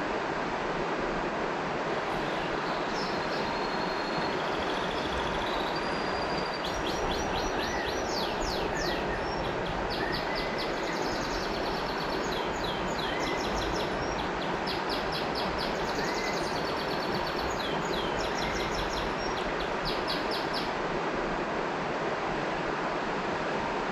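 River water flowing steadily, with birds singing over it: fast high trills and quickly repeated notes from a few seconds in until near the end, and a few short rising chirps.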